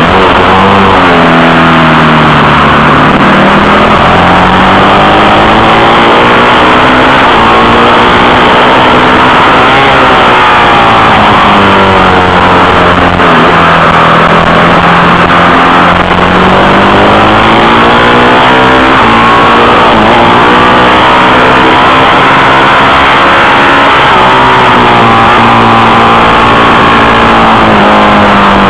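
Husaberg supermoto motorcycle engine, heard loud from on board, revving hard as the bike climbs the course, its pitch rising and falling again and again with the throttle and gear changes.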